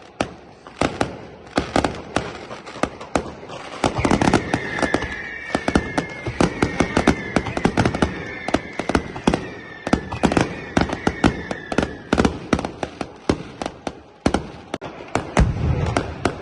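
Fireworks going off: a rapid, irregular string of sharp firecracker bangs, with several high whistles sounding together from about four seconds in, sliding slightly down in pitch and stopping around twelve seconds in.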